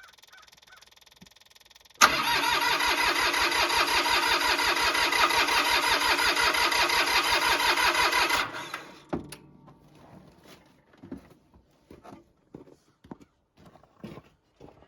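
Mahindra 1626 tractor's diesel engine cranked by its starter in the cold for about six seconds, with an even rapid pulsing, without firing, then cut off. This is a hard cold start caused by bad glow plugs.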